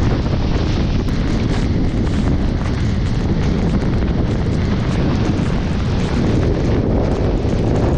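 Storm-force wind in a mountain snowstorm blasting across the microphone: a loud, continuous rumbling buffet with constant flutter and no let-up.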